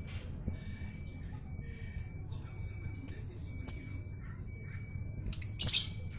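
Three-month-old lovebird giving short, sharp, high-pitched chirps, four spaced calls followed near the end by a louder squawk.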